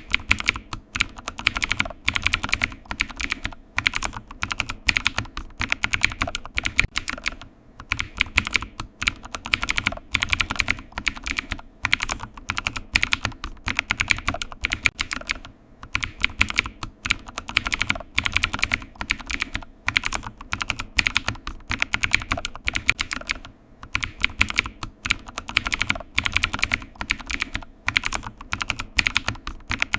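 Computer keyboard typing: rapid key clicks in runs of a few seconds, broken by short pauses.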